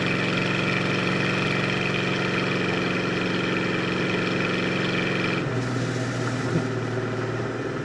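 1971 Plymouth Road Runner's 383 V8 running steadily on the move, with a mid-pitched engine drone; about five and a half seconds in, the revs drop and the note settles lower.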